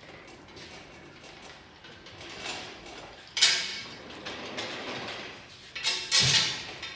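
Metal clunks and scraping as a rebuilt engine hanging from a hoist is slid into place against the transmission. A sharp clank comes about three and a half seconds in, and another loud knock around six seconds.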